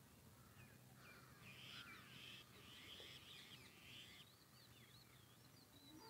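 Faint birds calling in near silence: harsh calls from about a second in, then a thin, wavering high chirp repeated through the last couple of seconds.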